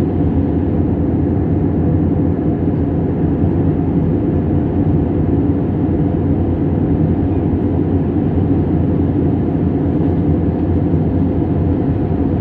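Steady cabin drone of an Airbus airliner in flight: jet engines and rushing air, with a low hum and a few steady tones under it.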